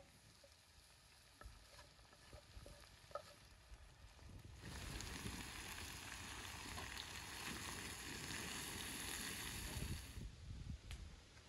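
Chopped vegetables sizzling as they fry in a large metal wok while being stirred. The hiss starts about four and a half seconds in and cuts off suddenly near ten seconds; before it there are only a few faint clicks.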